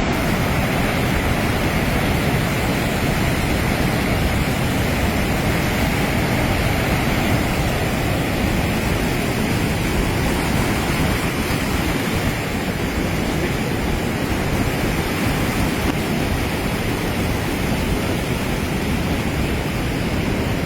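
Floodwater rushing through a river barrage: a loud, steady rushing noise with no breaks or changes.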